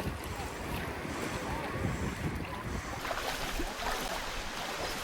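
Wind buffeting the microphone over water washing and lapping around a kayak at sea.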